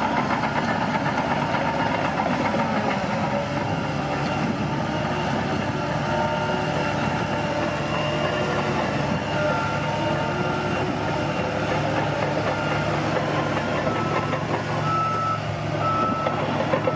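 Bulldozer's diesel engine running steadily under load, with a reversing alarm beeping at intervals, more often in the last few seconds.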